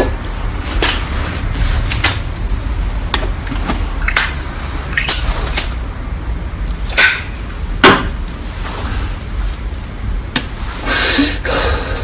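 Irregular sharp knocks and clinks of metal tools against a steel campfire frying pan being worked on, the two loudest about seven and eight seconds in. A short scraping rush follows near the end.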